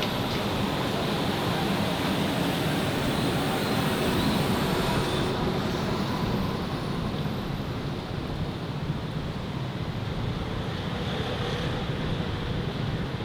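Steady city street traffic noise from passing vehicles, louder for the first half and easing off a little about six seconds in.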